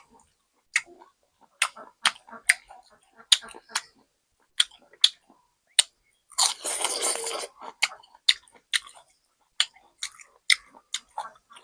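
Close-up eating sounds: crunchy chewing and mouth clicks at irregular intervals, with a longer rough crunching burst of about a second roughly six to seven seconds in.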